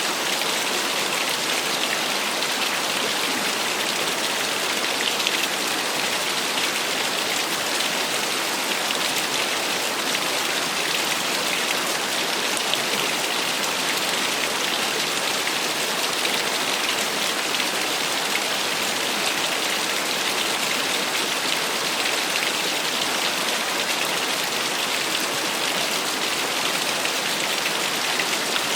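Small waterfall splashing, a steady, unbroken hiss of falling water with a fine crackle of spray.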